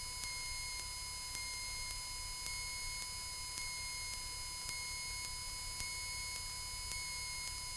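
Quiet cockpit audio of a Cessna 172 in flight: a steady electrical whine over a low engine rumble, with a faint tick about once a second.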